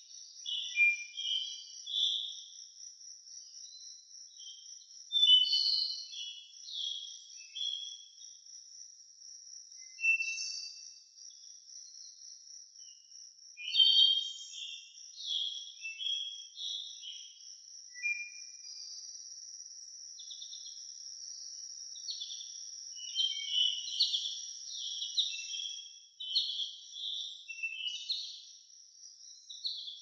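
Birds chirping and calling in short, irregular bursts over a steady, high-pitched trill.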